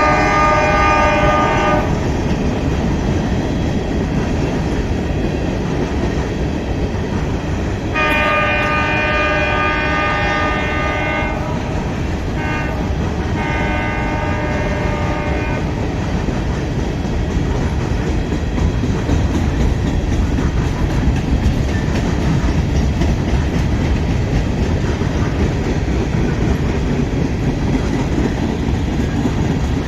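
Locomotive air horn sounding a chord: one blast ends about two seconds in, another long blast starts around eight seconds in, followed by shorter toots. Under it runs the steady rumble of the passing train.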